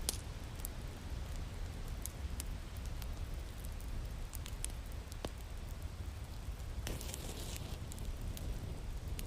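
Wood fire crackling in a fireplace: scattered sharp pops over a steady low rumble, with a brief flurry of crackles about seven seconds in.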